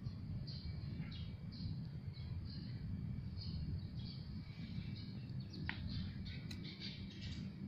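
Small birds chirping, short high calls repeating several times a second, over a steady low rumble.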